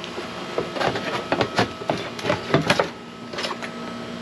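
A run of irregular clicks and light knocks, as of parts or tools being handled, over a steady hum.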